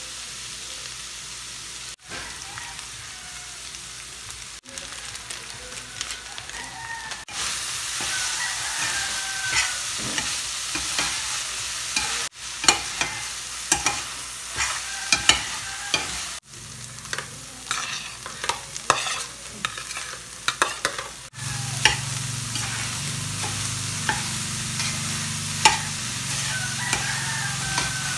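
Ground meat and diced carrots sizzling in a stainless steel pot while a metal slotted turner stirs them, scraping and clinking sharply against the pot. A low steady hum joins for the last several seconds.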